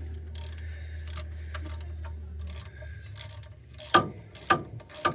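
Hand ratchet clicking in short back-and-forth strokes, tightening transmission pan bolts. The three loudest clicks come near the end.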